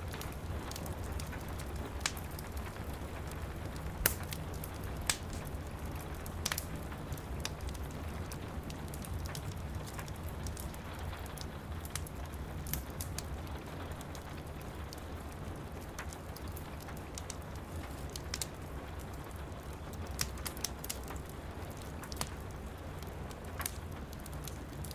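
Steady rain pattering with a low rumble under it, mixed with a wood fire crackling: irregular sharp pops and snaps, the loudest about four seconds in.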